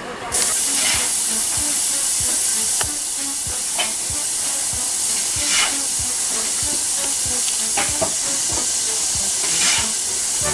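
Steam locomotive letting off steam: a loud, steady hiss that starts suddenly about half a second in and swells louder a few times.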